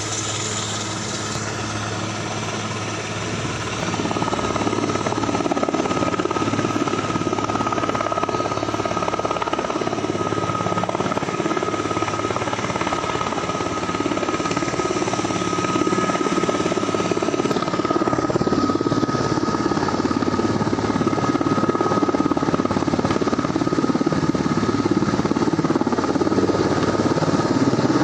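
Aircraft engines running: a steady rush with a high, even whine, growing louder about four seconds in and again past halfway.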